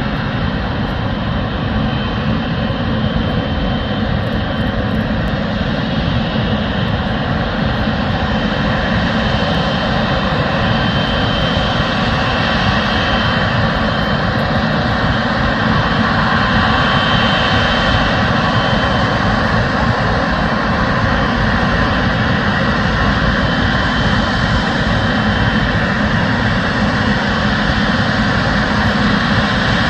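Boeing 777F freighter's jet engines running at taxi power: a steady, loud jet rumble and rush, with a faint high whine that comes and goes. It grows slightly louder about halfway through.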